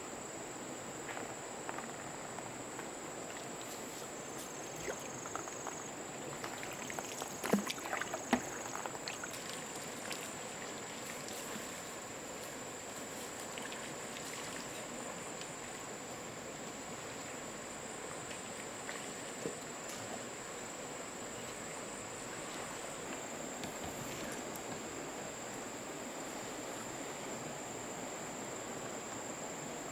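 A steady high-pitched insect drone over a soft wash of water noise in the jungle, with a couple of sharp knocks about eight seconds in.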